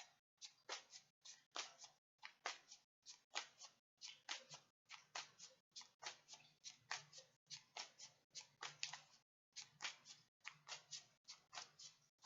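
Tarot deck being shuffled by hand: faint, rapid card flicks, about four a second.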